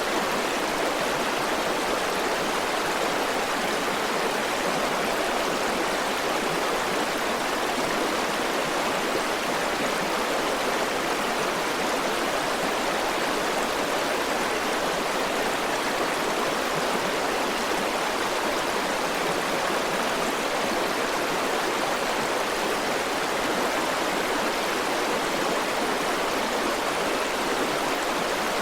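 River water flowing in a steady, even rush, with no breaks or separate splashes.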